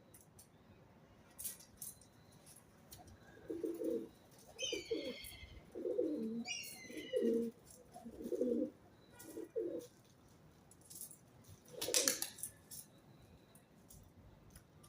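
Pigeons cooing in a run of low, repeated phrases, with two short higher-pitched chirps among them. A brief rustling noise near the end.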